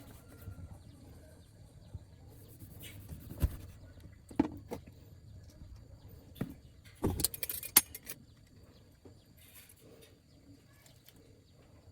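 Scattered knocks and metallic clinks, like tools or metal parts being handled, loudest in a quick cluster about seven seconds in.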